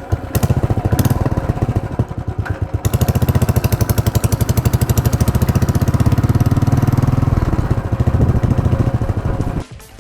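Motorcycle engine running with a fast, even beat, cutting off suddenly near the end.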